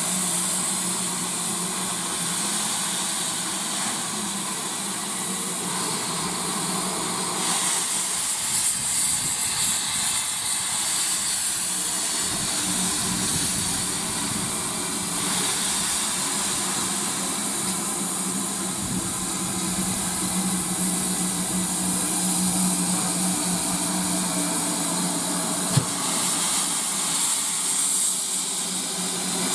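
Steam locomotive standing with steam hissing steadily, over a steady low hum, with one sharp click about 26 seconds in.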